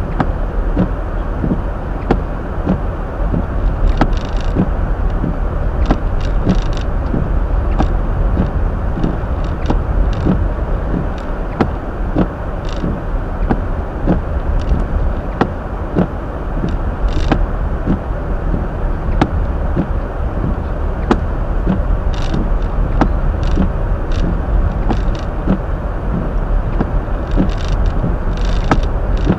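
Road noise from a Hyundai Elantra driving on snow-covered streets: a steady low rumble of tyres and engine, with frequent small irregular clicks and knocks throughout.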